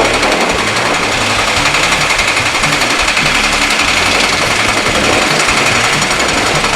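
A powered breaker, such as a jackhammer or an excavator's hydraulic hammer, hammering rapidly and without a break.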